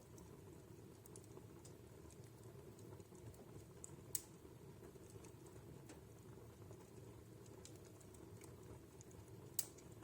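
Faint wood fire crackling in a fireplace: a soft, steady low rush from the flames, with scattered small crackles and two sharper pops, about four seconds in and near the end.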